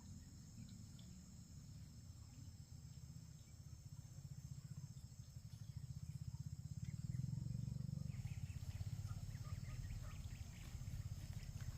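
Insects, crickets, chirring steadily in high, even tones over a low, fluttering rumble that swells about halfway through. Small ticks and rustles come in over the last few seconds.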